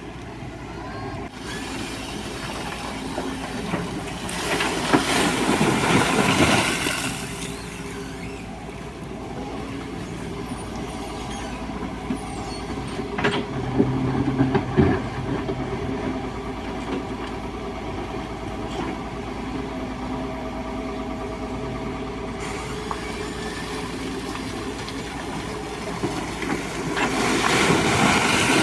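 Excavator's diesel engine running steadily, with two louder stretches of rushing hiss, one about five seconds in and one near the end, and a few short knocks around the middle.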